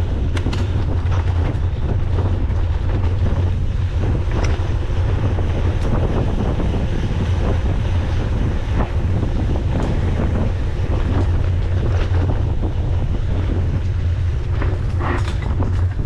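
Wind buffeting the microphone of a camera riding along on a mountain bike at race speed, a steady low rumble. Scattered clicks and rattles come from the bike on the rough trail.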